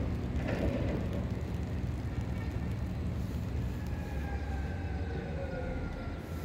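Steady low rumble of trains in a commuter-rail yard. From about two seconds in, faint high tones glide slowly downward in pitch.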